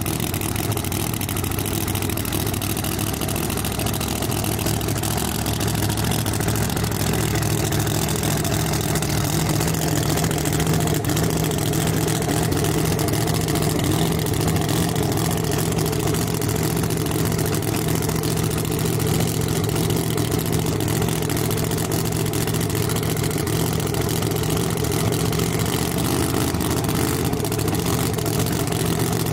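A 1969 Camaro drag car's engine idling steadily, with no revving.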